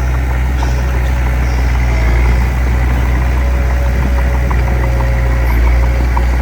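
Diesel engine of earthmoving machinery running steadily with a deep, even drone. A light, regular ticking sounds over it, more frequent in the second half.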